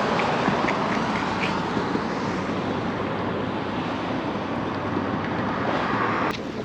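Steady road traffic noise of passing cars, cutting off suddenly near the end.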